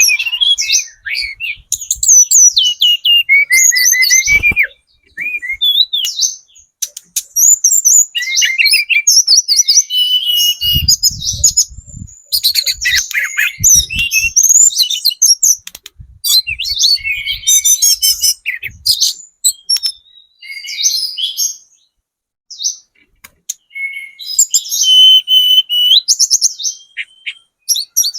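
Tledekan gunung songbird singing long, rapid chattering phrases and twittering trills in quick succession with short pauses: a spotted-plumage (trotol) bird in full, energetic song, used as a lure call to make other birds answer. A few dull low thuds sound about eleven to fifteen seconds in.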